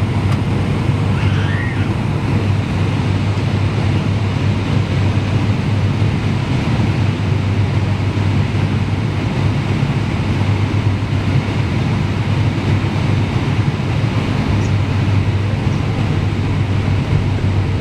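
Steady jet airliner cabin noise heard from inside the passenger cabin: engine and airflow noise with a deep hum and a faint steady tone, unchanging throughout.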